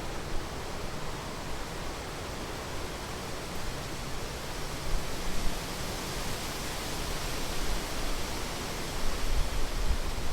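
Rhine Falls waterfall: a steady, dense rush of falling water, getting slightly louder near the end.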